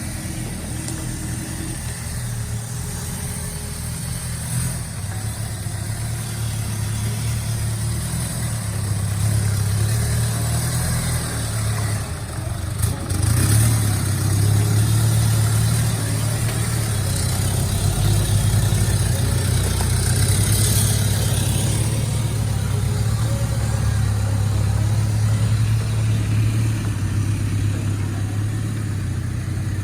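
Off-road vehicle engine running steadily at low speed, the drone growing louder about a third of the way in as it works harder, with a brief clatter near the middle.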